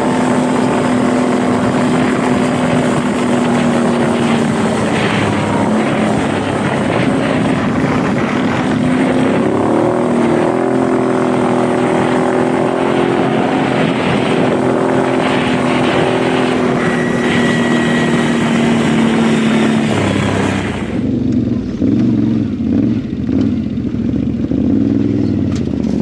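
ATV engine running steadily while riding, its pitch shifting up a little about ten seconds in. About twenty seconds in the sound cuts off suddenly and gives way to a lower, uneven, choppier sound.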